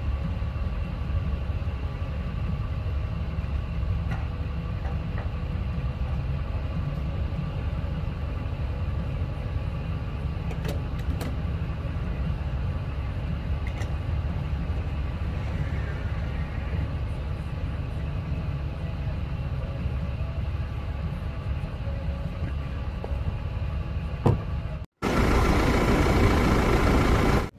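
A vehicle's engine running steadily with a low rumble while travelling. About 25 seconds in, the sound cuts off abruptly and is replaced by a louder engine sound that reaches higher.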